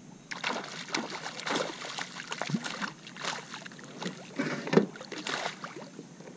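Water splashing and sloshing against a kayak, with irregular knocks and clicks on the hull, loudest in a cluster near the end.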